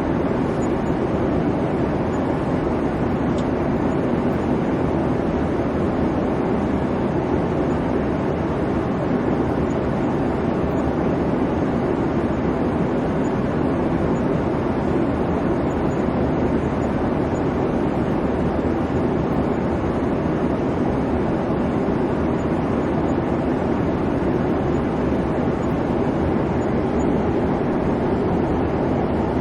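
Airliner cabin noise: the steady rumble and hum of the jet engines and rushing air heard from inside the cabin, unchanging throughout.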